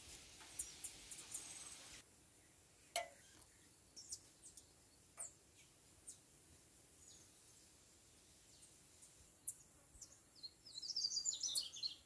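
Birds chirping: short, scattered high calls, then a quick run of twittering near the end, the loudest part.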